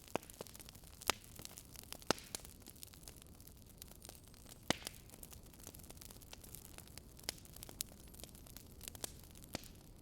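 Burning logs crackling: irregular sharp pops and snaps over a steady low hiss, with a few louder pops about one, two and nearly five seconds in.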